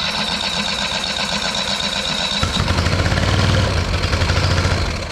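Parsun 25 hp outboard motor being cranked over with its electric starter after a carburetor replacement, with a high starter whine; about two and a half seconds in the sound turns deeper and heavier with a strong low rhythmic pulse, then falls away near the end, and the engine does not keep running.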